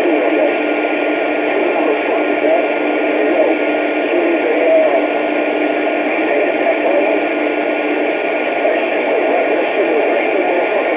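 Steady radio-receiver hiss cut off above and below like a narrow radio channel, with faint garbled voice-like chatter in it. A steady low hum runs under it and stops about eight seconds in.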